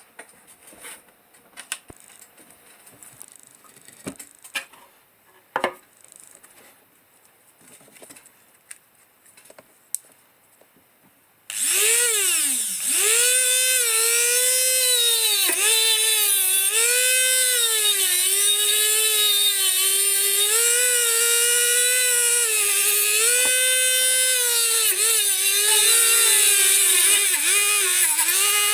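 Scattered light clicks and taps of handling, then, about a third of the way in, a small high-speed electric power tool starts suddenly and runs on. Its whine dips in pitch and recovers again and again as it is pressed against the metal, as in rust removal or polishing.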